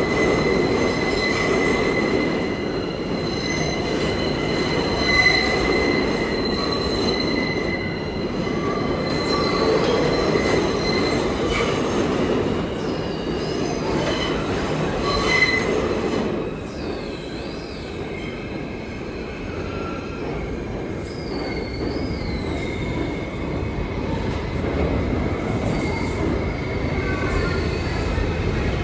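New York City subway train running through a station, its wheels squealing in steady high tones over the rumble of the cars. About 16 s in the noise drops, and high whines slide up and down in pitch.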